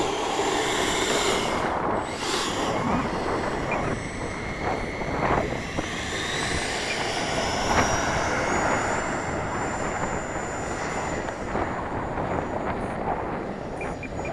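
Electric ducted fan of an Avanti S 80mm RC jet whining, its pitch rising steeply about five to nine seconds in as it is throttled up for takeoff, then holding high. Heavy wind noise on the microphone throughout.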